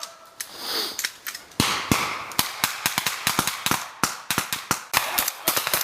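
Rifle fire from several shooters: sharp, irregular shots, several a second with short gaps. These are the blank rounds of a squad training exercise.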